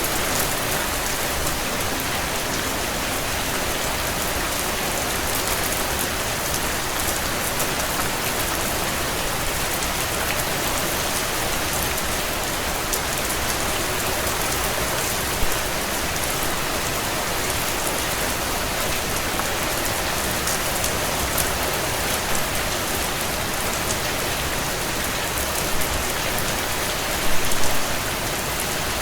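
Heavy rain drumming steadily on a tin roof, a dense even patter of drops. A few louder drop strikes stand out, one about halfway through and a short cluster near the end.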